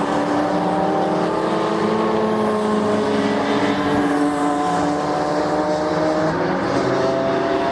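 Race car engine running hard at high revs, its pitch climbing slowly, with a brief dip about six seconds in like a gear change.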